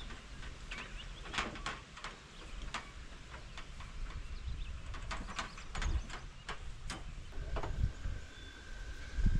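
Scattered clicks, knocks and scrapes of hands-on work, with short low thuds; a thin steady tone comes in about seven seconds in and holds.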